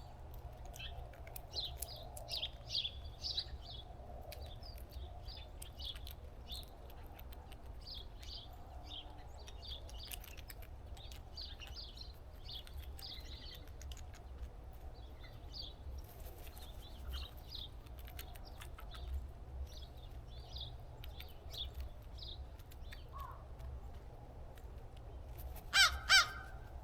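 Small birds chirping in quick short notes throughout over a steady low rumble, then near the end a crow gives two loud harsh caws.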